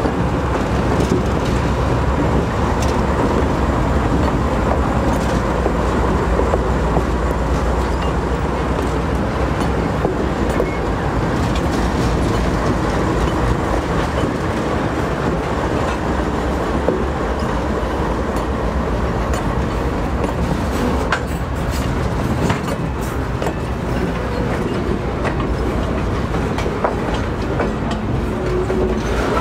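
Train rolling past: a steady, loud rumble of wheels on the rails with repeated clicks over the rail joints.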